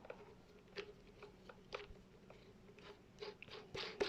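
Faint, scattered clicks and taps of the impact wrench and its accessories being handled, a little louder near the end, over a faint steady hum.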